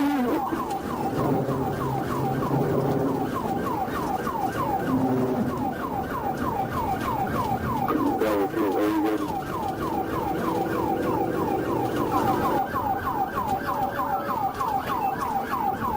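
Police car siren in fast yelp mode, its pitch sweeping about three times a second, with the patrol car's engine running underneath.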